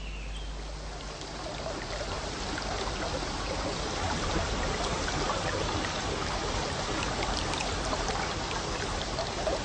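Shallow rainforest stream flowing and trickling over rocks, a steady rush of water.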